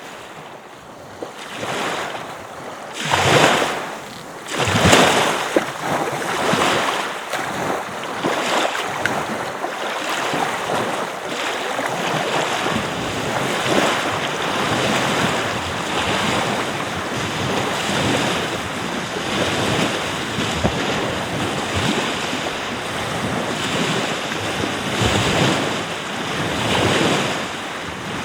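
Surf washing continuously onto a beach, with two louder wave surges a few seconds in.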